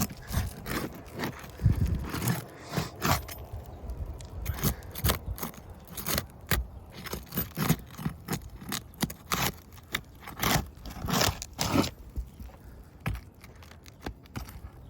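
Asphalt roof shingles being worked loose by hand: a run of irregular scrapes and crackles, about one to two a second.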